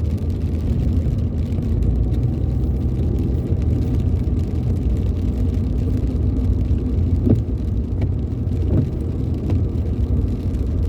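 Steady low rumble of a car driving on a rain-wet road, heard from inside the cabin: engine and tyre noise.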